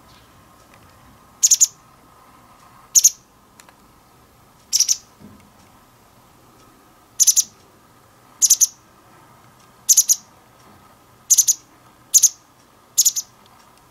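A wagtail calling: about nine short, sharp, high-pitched calls, many of them two quick notes together, one every second or two.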